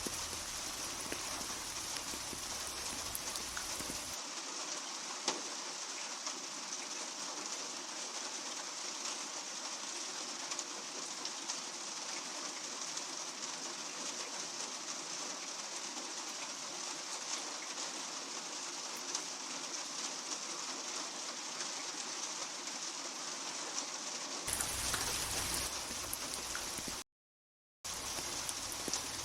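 Steady rain falling, an even hiss with scattered drop ticks. The sound changes in tone twice, and near the end it cuts out completely for about a second before resuming, as at a splice in the recording.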